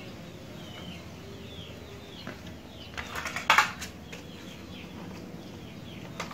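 Small birds chirping in the background in a string of short, falling chirps. A brief loud rustle or scrape comes about three and a half seconds in.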